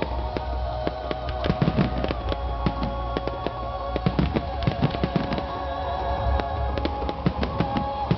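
Fireworks display: rapid bangs and crackles of bursting shells, many a second, with music playing under them.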